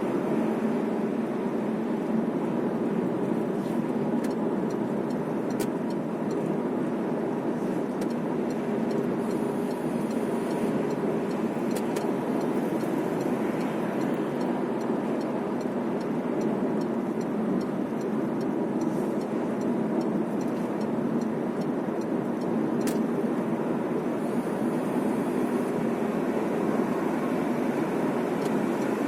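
Steady road and engine noise inside the cabin of a moving car, an even rumble with no change in pace.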